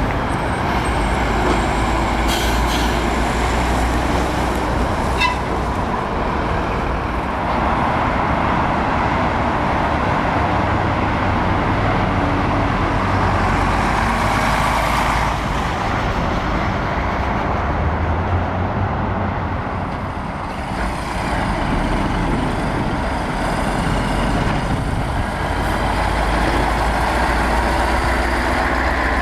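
Heavy diesel trucks, Volvos and Scanias, running and moving past close by, their engines making a steady low sound, with a few brief sharp sounds about two and five seconds in.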